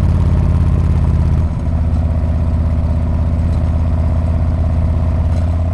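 Harley-Davidson Street Bob's V-twin engine and exhaust running steadily at low revs, with a brief dip and a slight drop in pitch about one and a half seconds in.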